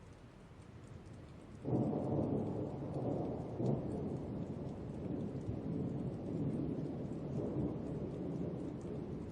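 Thunder: a sudden clap about a second and a half in that rolls on as a long, heavy rumble, over a faint patter of rain.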